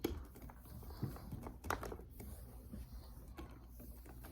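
A few light knocks and clicks, with some rustling, from handling a Shark Rocket stick vacuum while its power cord is coiled onto it.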